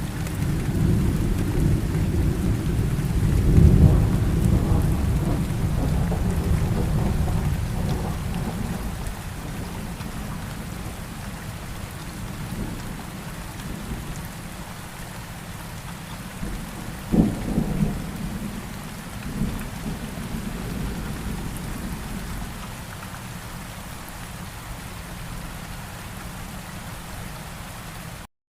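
Steady rain with rolling thunder. A long low rumble swells over the first few seconds and dies away, and past the middle a sharper thunderclap comes with a shorter rumble after it. The sound cuts out abruptly at the very end.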